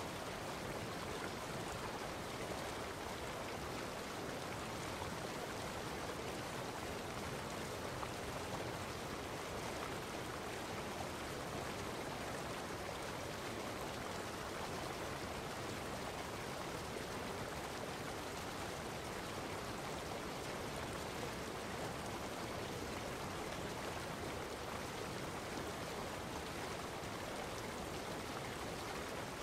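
Steady, unchanging rushing noise of water.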